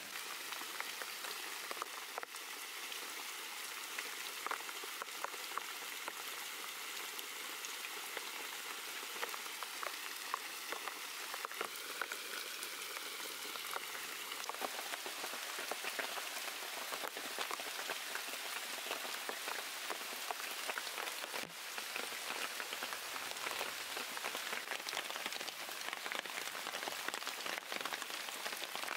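Heavy rain falling steadily, a dense hiss of many individual drops striking.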